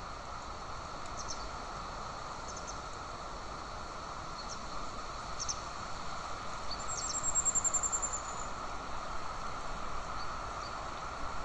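Steady outdoor background hiss with scattered faint, high bird chirps. About seven seconds in comes a quick, high trill of roughly a dozen notes.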